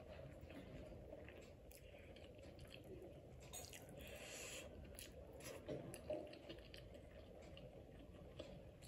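Faint, close chewing of a mouthful of food, with small wet clicks and squishes as fingers pinch and mix fried rice on a plate. A brief soft rustle comes about four seconds in.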